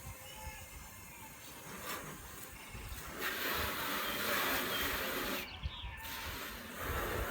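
Light rain beginning to fall, a steady hiss that grows louder about three seconds in and briefly thins a little past five seconds.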